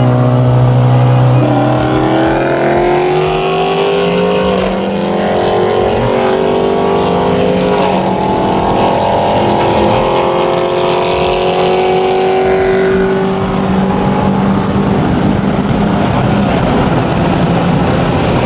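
A big-turbo Ford Focus ST's turbocharged four-cylinder engine pulling hard under full acceleration. Its note climbs steadily in pitch through the gears, dropping at upshifts about four and a half and eight seconds in, then levels off to a steady cruise near the end.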